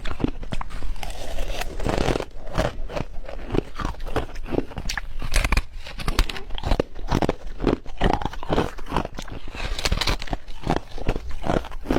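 Ice being bitten and chewed close to the microphone: a dense, uneven run of sharp crunches and crackles.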